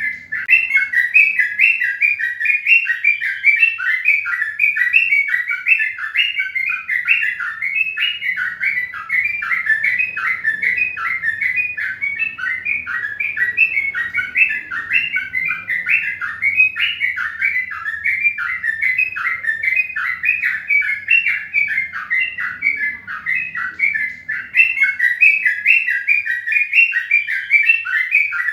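Birds chirping continuously, a dense run of short, high chirps several times a second without a break.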